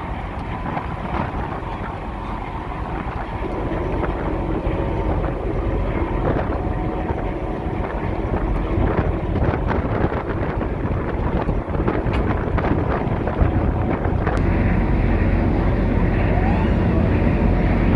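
Wind buffeting the microphone over the steady drone of a car ferry's engines; the low rumble grows louder in the last few seconds.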